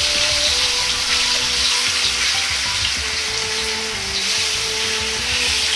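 Chicken thigh pieces sizzling in hot oil in a wok as more are tipped in from a bowl: a steady frying hiss.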